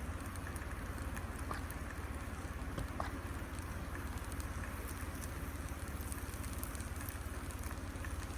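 Steady low outdoor rumble, like wind on the microphone or distant traffic, with a few faint scattered ticks.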